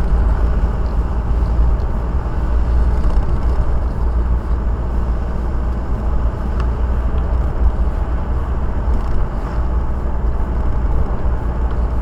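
Steady road and engine rumble inside a moving car's cabin, with an even hiss of tyre noise.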